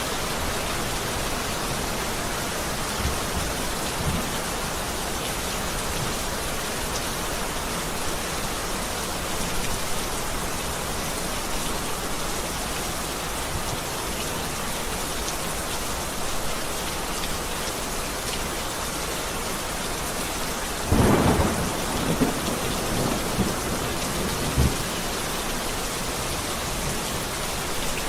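Heavy rain falling steadily, with a loud roll of thunder about three quarters of the way through and a few fainter low rumbles.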